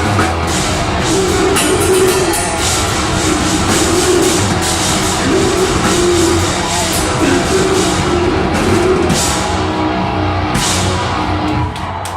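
Deathgrind band playing live: distorted guitars, a drum kit and harsh vocals, loud and dense. The music drops off near the end.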